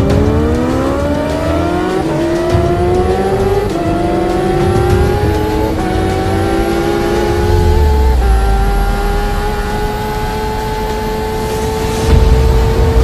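A motorcycle engine accelerating hard through the gears. Its pitch climbs steeply, drops briefly at each of several quick upshifts, and climbs more slowly in each higher gear.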